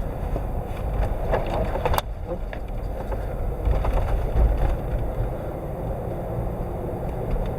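Car driving, heard inside the cabin: a steady low road and engine rumble, with a single sharp click about two seconds in.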